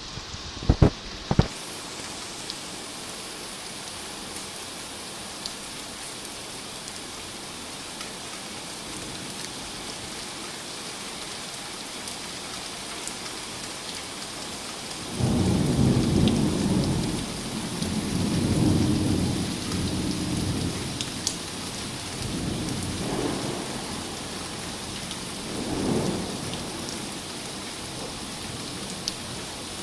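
Steady rain falling, with a long roll of thunder that breaks in suddenly about halfway through and rumbles on in several waves before dying away. A few sharp knocks sound in the first couple of seconds.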